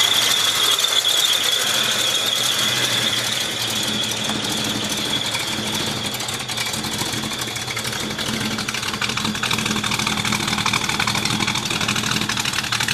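Ford small-block V8 in a 1967 Mustang, fitted with long tube headers, dual exhaust and a mild cam, idling with a lope. A steady high-pitched whine sits over the engine, strongest in the first few seconds.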